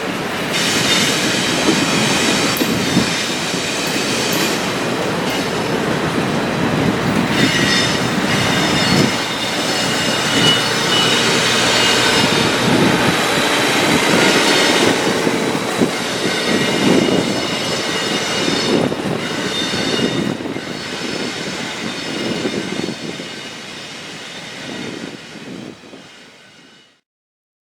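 Train rolling past with its wheels squealing against the rails over a steady rumble and clatter. It fades toward the end, then cuts off suddenly.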